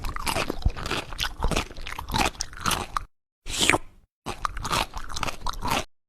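Crunchy food being chewed in quick, crisp bites. The crunching stops dead twice, with a brief rising squeak between the breaks.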